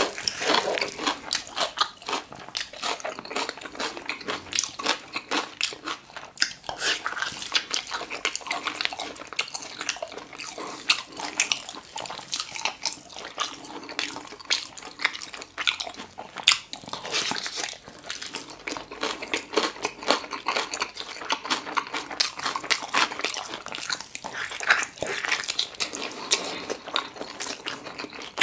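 Close-miked eating sounds of a person chewing braised pork trotter and kimchi: a dense, irregular run of wet smacks and crunchy clicks.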